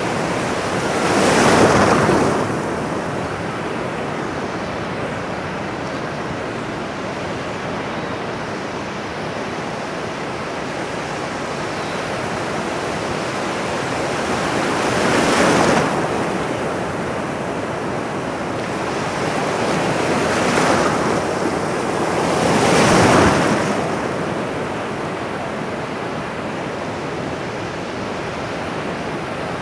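Ocean surf: a steady wash of water with four waves breaking and swelling up, one near the start and three in the second half.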